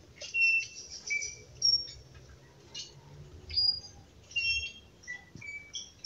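Forest birds calling: a series of short, high whistled notes and chirps at changing pitches, coming one after another with brief gaps.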